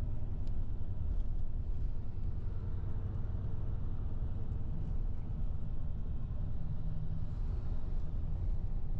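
Steady low engine and road rumble heard from inside a moving tour bus.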